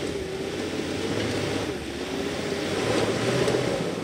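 Off-road 4x4's engine running hard under load on a steep climb, its pitch wavering and rising about three seconds in.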